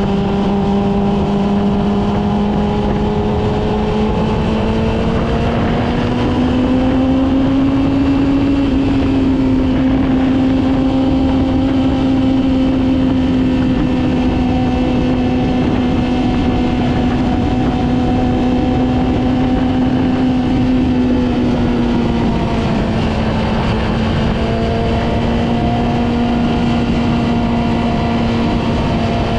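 Yamaha R6's inline-four engine running steadily at mid revs while riding, with wind and road noise. The pitch climbs a little about a quarter of the way in, holds, then eases back down a few seconds before the end.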